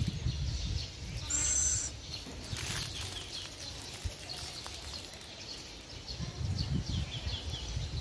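Small birds chirping in short runs of quick falling notes, with one brief shrill, high-pitched call about a second and a half in, over a low rumble.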